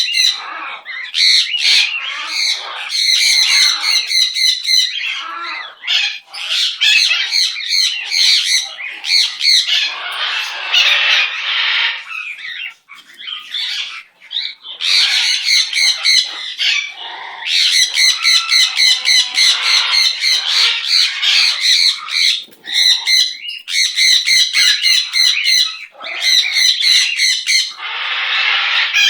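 Pet bird singing in long runs of rapid repeated notes, with a few short breaks.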